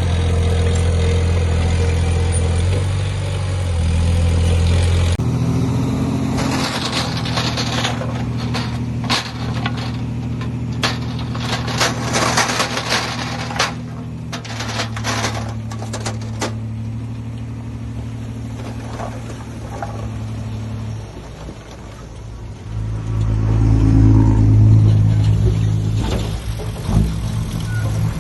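Diesel engine of heavy earthmoving machinery running, with a burst of clanks and rattles partway through, and the engine revving up under load near the end.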